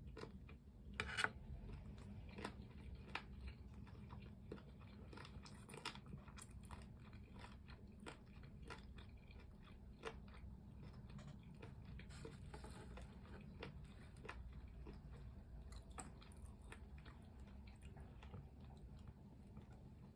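Close-miked biting and chewing of crispy fried chicken, with many small crunches throughout and one louder crunchy bite about a second in.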